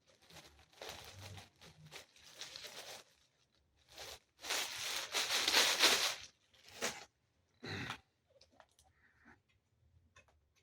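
Plastic packaging bag being handled and torn open, with rustling and crinkling in several bursts, the loudest lasting about two seconds near the middle, then a few short crackles and faint clicks.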